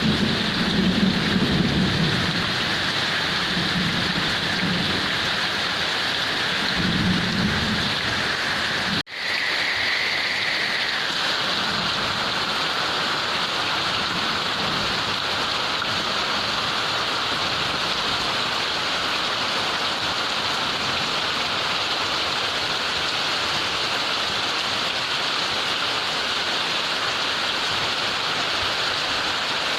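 Heavy rain pouring steadily, with low rolls of thunder rumbling in the first part. About nine seconds in the sound cuts out for an instant, then the heavy rain goes on without thunder.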